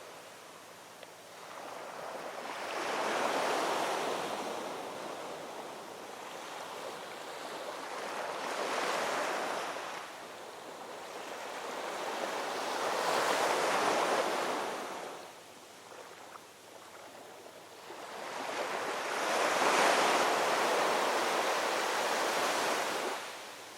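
Ocean waves breaking and rolling onto shore: four surges of surf rise and fall over the stretch, the longest and loudest near the end before it drops away.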